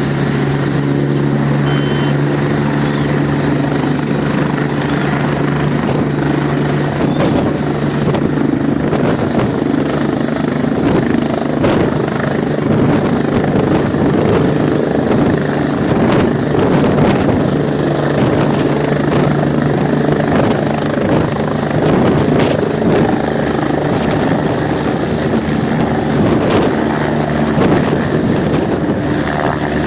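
Air ambulance helicopter's rotors and turbine engine running loud and steady, a continuous low drone over a rushing wash of noise.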